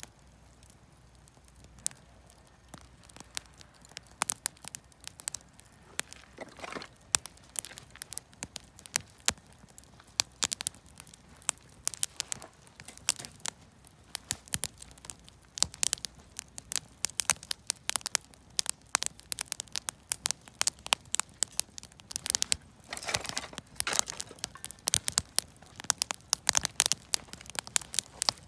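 Campfire of lumber offcuts and firewood crackling, with sharp pops and snaps that come more often toward the end. A short hiss rises about a quarter of the way in, and another comes near the end.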